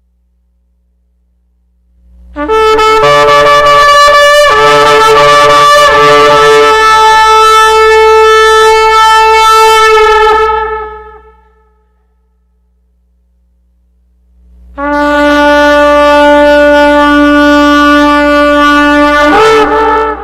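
Shofar blown in two long, loud blasts. The first lasts about eight seconds and wavers in pitch early on. The second lasts about five seconds and breaks upward in pitch just before it ends.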